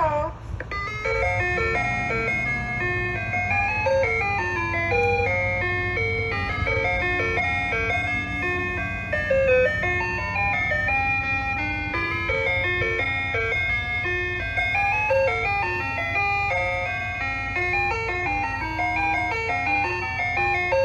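Ice cream truck's chime speaker playing its electronic jingle, a melody of short stepped notes that repeats throughout, over a steady low hum.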